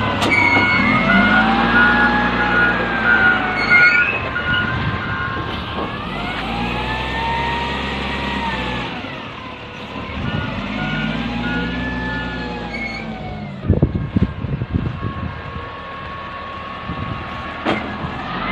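Pick-up dump truck engine revving up and easing off three times in long surges, with a rapid beeping tone over the first and third surges. A burst of knocks and clatter about fourteen seconds in.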